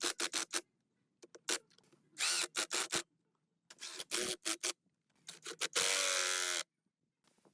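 Workshop tool work on generator parts: clusters of quick scraping strokes, and a little before the end a longer, louder burst with a pitched whine.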